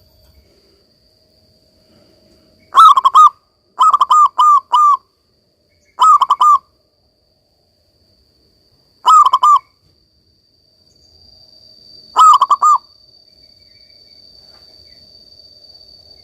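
Zebra dove (perkutut) cooing: five short phrases of rapid, rolling coos a few seconds apart, the second phrase the longest. A faint steady high tone runs behind, with a faint hiss coming up near the end.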